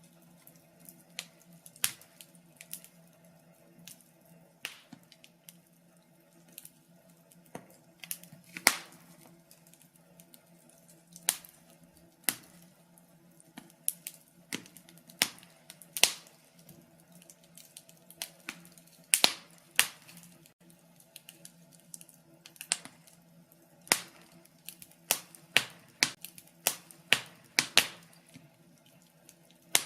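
Wood fire crackling: irregular sharp pops and snaps, sometimes several in quick succession, over a faint steady low hum.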